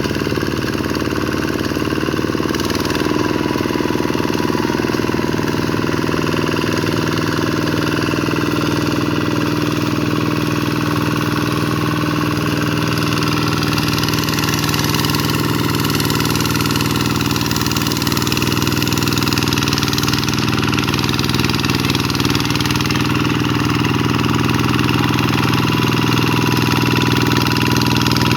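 Vikyno RV125 hand tractor's single-cylinder diesel engine running steadily, its pitch shifting slightly about two to three seconds in.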